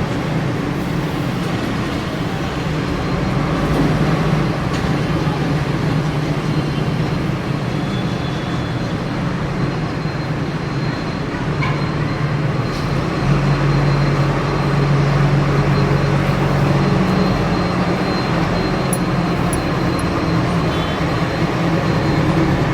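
Steady mechanical background noise with a low hum, unbroken throughout, like a running fan or cooler or distant traffic.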